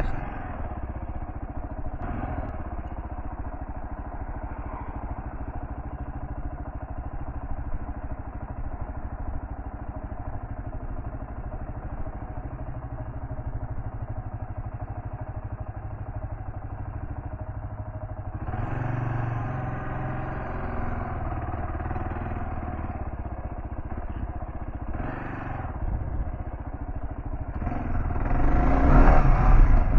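Kawasaki KLR650's single-cylinder four-stroke engine running as the motorcycle is ridden off road. It holds a steady note at first, grows louder about eighteen seconds in, and is loudest near the end.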